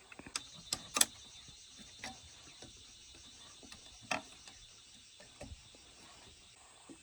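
Scattered sharp clicks and knocks, the loudest about a second in and another around four seconds, over a faint steady high hum.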